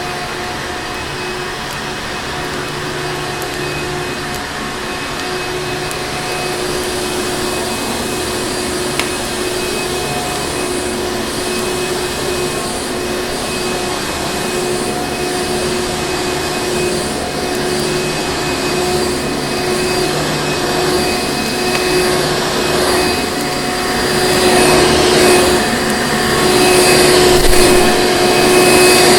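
Vacuum cleaner motor running steadily, a dense rushing air noise with a steady motor whine; it grows louder and surges in the last few seconds.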